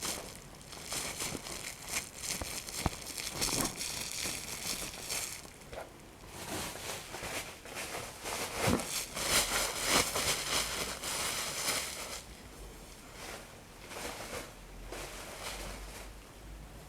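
Paper being crumpled and torn, in irregular crinkling bursts with sharp crackles, busiest in the middle.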